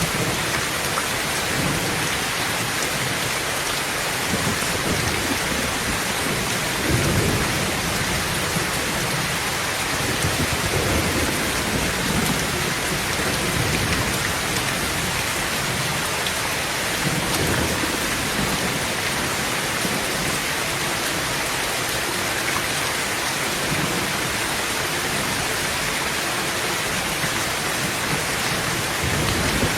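Heavy rain falling steadily on a tin roof, with low rolls of thunder rumbling several times underneath.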